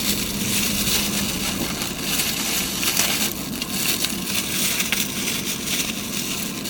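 Plastic packaging crinkling and rustling as it is handled and unwrapped, in a dense run of small crackles.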